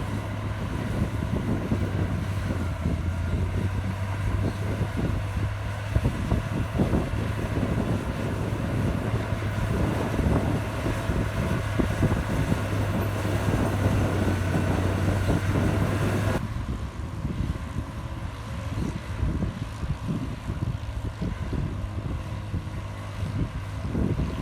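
Komatsu bulldozer's diesel engine running steadily at work, with a low droning hum under rough mechanical noise. About two-thirds of the way through, the higher part of the sound and the hum drop away suddenly, leaving a lower, rougher engine sound.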